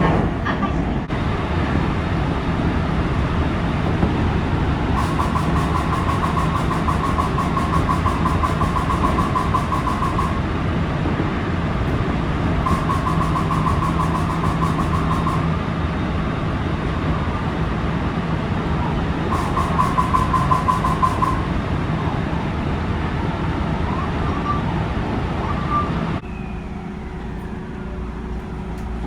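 Rapid clicking rattle from under the floor of a JR West 223 series 1000 subseries electric train, coming in three spells over the train's steady running noise. The uploader takes it for the air compressor.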